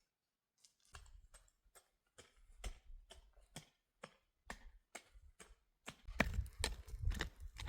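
A series of sharp knocks, irregular and roughly two to three a second, with a low rumbling noise coming in near the end.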